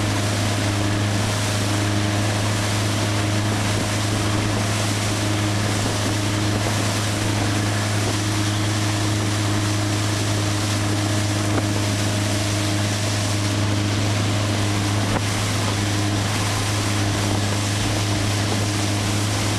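Motorboat engine running at a steady speed, a constant low drone, with rushing wind and water noise.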